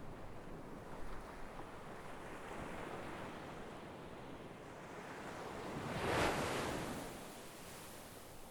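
Sea waves washing onto a shore, a steady surf wash with one wave breaking louder about six seconds in and then receding.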